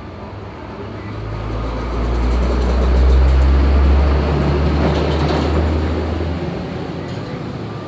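Heavy engine rumbling low, swelling about a second in and dying away after about six seconds.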